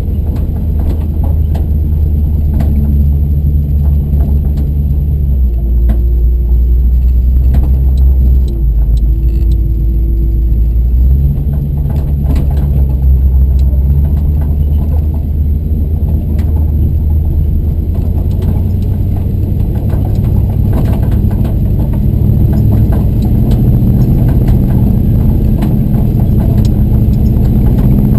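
Truck engine running at low speed, its pitch stepping up and down every few seconds as the throttle changes, with scattered knocks and rattles throughout.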